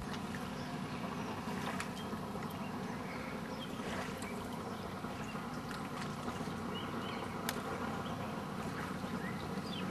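A steady low engine hum, with faint high chirps and clicks scattered over it.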